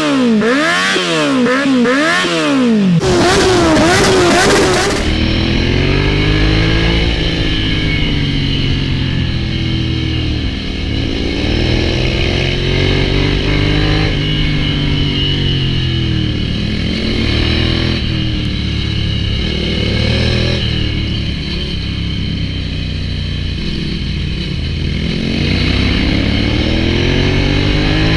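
Ducati Hypermotard 796's air-cooled L-twin engine through an SC-Project full exhaust: a few quick throttle blips, then the engine's pitch rising and falling more slowly as it revs up and comes back down, over and over.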